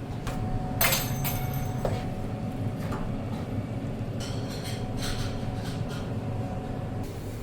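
Scattered clinks and taps of tableware: dishes, cutlery and glass being handled on a table, a few with a short ring, over a steady low background hum.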